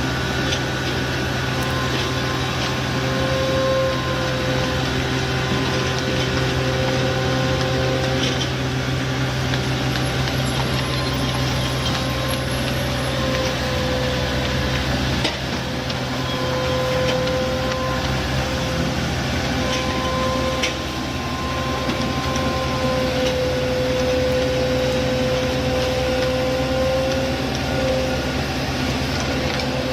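Heavy road-construction machinery running steadily: a diesel engine's low hum with a wavering whine above it.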